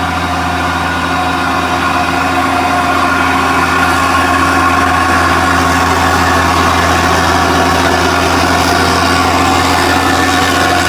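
A vehicle engine idling steadily, with a deep low hum and several held droning tones above it, a little louder after the first few seconds. The engine sound is described as 'horror'.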